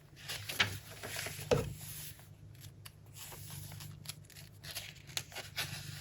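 Paper rustling and crinkling as handmade junk journal pages and paper pockets are handled and turned, with a few sharp crackles.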